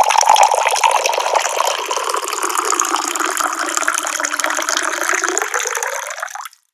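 Tap water pouring in a steady stream. It cuts off abruptly near the end.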